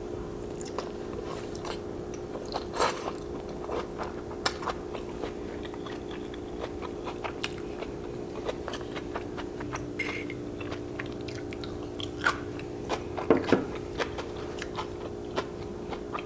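A person chewing a mouthful of japchae (sweet potato glass noodles with stir-fried vegetables), close to the microphone: irregular wet mouth clicks and smacks, a few of them louder, over a steady low hum.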